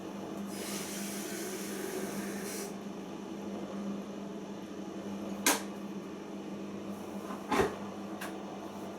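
Siemens iQ front-loading washing machine running between the main wash and the first rinse, a no-spin programme: a steady hum with a rush of water near the start, then two sharp knocks about two seconds apart.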